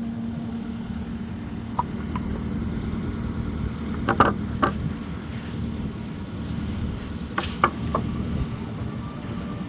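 An engine running steadily at low speed, with a few sharp metallic clanks, two around the middle and a quick cluster near the end.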